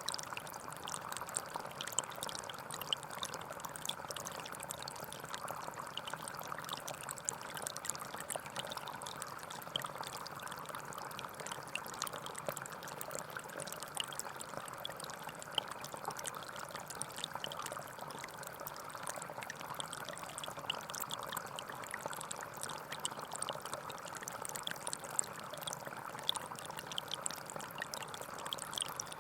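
Gentle forest stream flowing steadily, a constant rush of water with many small splashes and drips through it.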